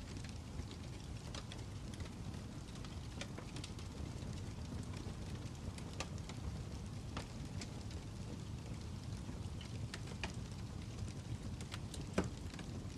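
Wood fire crackling: a steady low rumble with scattered sharp pops, and one louder pop near the end.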